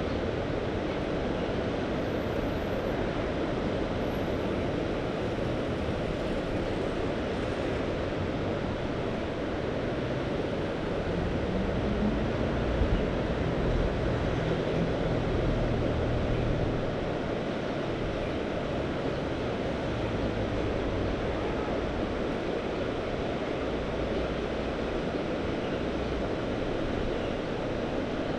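Mediterranean sea surf washing steadily, with wind noise on the microphone. A low drone swells in the middle for several seconds and then fades.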